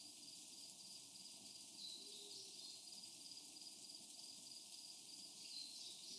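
Near silence: faint outdoor ambience, a low even hiss with a faint high steady tone.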